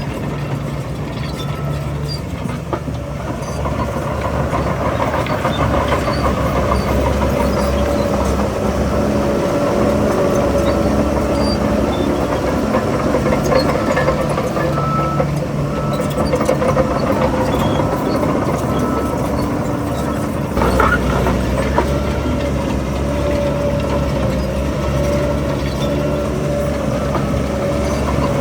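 Heavy earthmoving machine's diesel engine running steadily. Its level rises about four seconds in and shifts again a little after twenty seconds, as under changing load.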